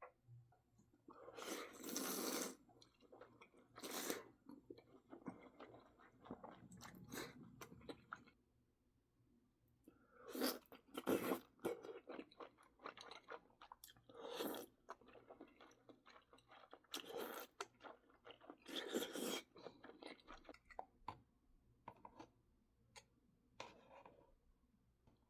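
Close-miked eating sounds of mala tang: chewing and crunchy bites in irregular bouts, with a pause of about two seconds near the middle.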